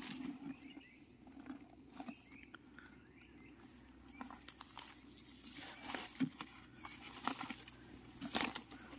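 Irregular crackling and rustling of dry leaf litter and twigs on a forest floor as a person steps and searches through it, with a few sharper snaps about six seconds in and near the end.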